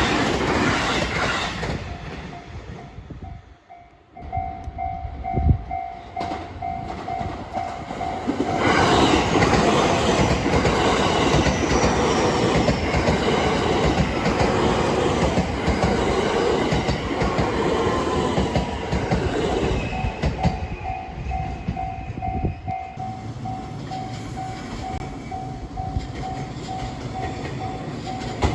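Japanese level-crossing alarm ringing in a steady, fast repeat as a JR Hanwa Line train runs over the crossing. From about eight seconds in, the train's wheels clatter loudly over the rail joints for some fourteen seconds, drowning the bell, which is heard again as the train fades.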